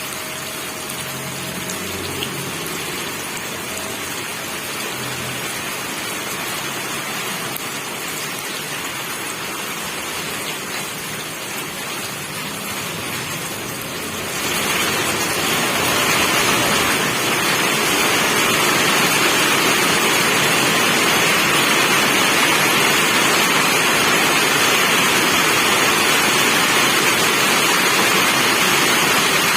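Steady rain falling. About halfway through it grows heavier, louder and hissier, and stays so.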